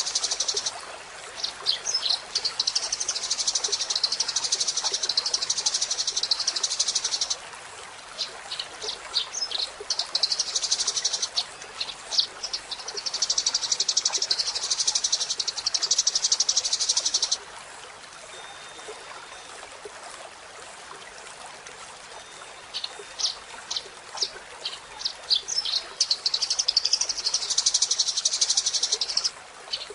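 Eurasian tree sparrows chattering: long bouts of rapid, buzzy, high-pitched chirping broken by single sharp chirps, with a quieter lull of faint hiss a little past the middle.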